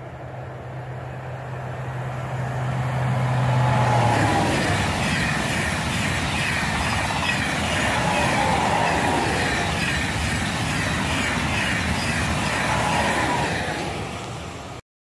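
Thalys high-speed trainset approaching and passing at speed. A steady hum drops in pitch as the front passes, about four seconds in, followed by the loud rush of the coaches going by. The sound cuts off suddenly near the end.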